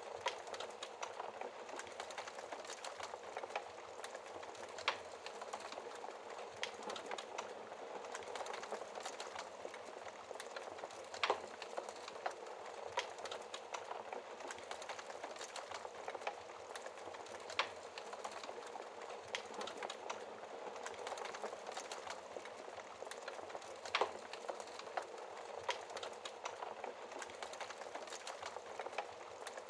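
Wood fire burning in a fireplace, crackling steadily with a constant soft hiss and frequent small snaps, and a few louder sharp pops spaced several seconds apart.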